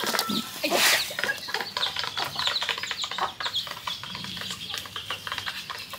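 Short bird calls scattered over many small clicks and taps.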